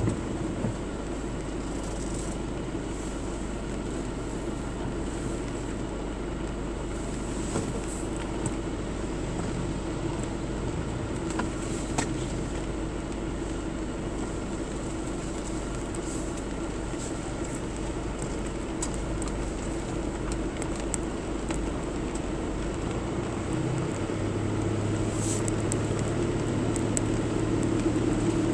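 A vehicle driving, with a steady engine hum and road noise. A deeper engine note joins about three-quarters of the way through and the sound grows a little louder.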